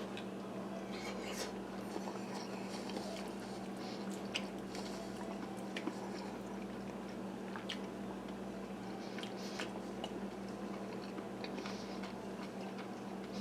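A person chewing a mouthful of garlic chicken and rice, with small, irregular mouth clicks, over a steady low hum.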